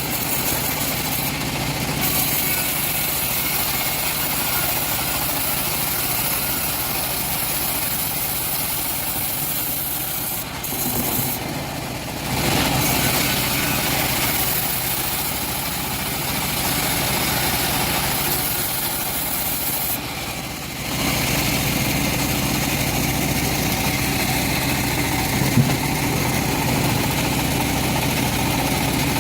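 Engine-driven homemade bandsaw mill running steadily as it saws teak. The sound dips briefly and comes back louder about twelve seconds in and again about twenty-one seconds in.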